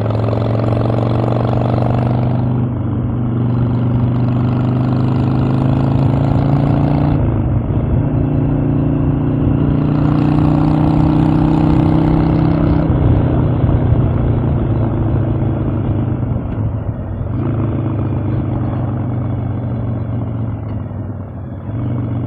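Harley-Davidson Evolution V-twin engine pulling the motorcycle along. Its pitch dips briefly about three and seven seconds in, then climbs steadily as it accelerates. Later it falls away as the rider eases off, and near the end it settles to a steady run.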